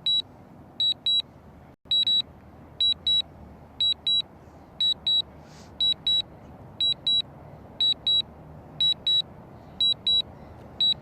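Drone remote controller sounding its return-to-home alert: a short high double beep about once a second, while the drone flies itself back to its take-off point.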